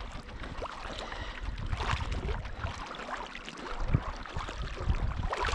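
A kayak being paddled: the paddle splashes in the water and now and then knocks lightly against the hull, over a low rumble.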